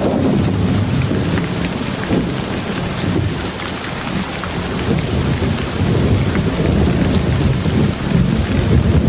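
Steady heavy rain with a deep rumble of thunder underneath, swelling and easing slightly across the span, with scattered drop ticks.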